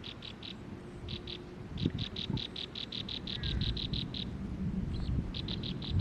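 A bird calling in rapid runs of short, high chirps, about five a second. The longest run lasts about two seconds. Underneath is a low rumble.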